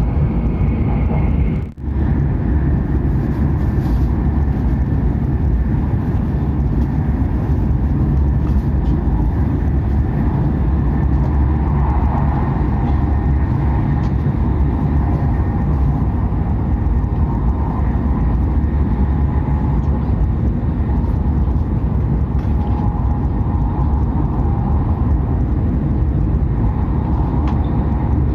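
Hokuriku Shinkansen train running at speed, a steady loud rumble with a faint higher hum over it, broken by a very brief drop in the sound about two seconds in.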